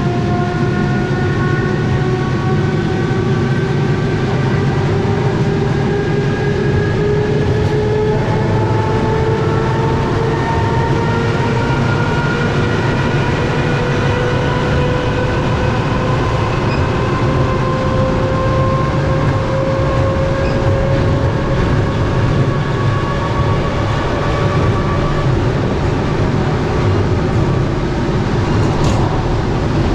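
Suburban electric train running, heard from inside the car: a steady low rumble from the wheels and track, with a motor whine that rises slowly in pitch as the train gathers speed after a stop.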